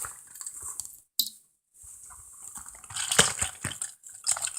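Small die-cast metal and plastic toy vehicles being handled, giving light clicks, taps and rustling. The sound cuts out briefly about a second in, and the clicks come thicker about three seconds in.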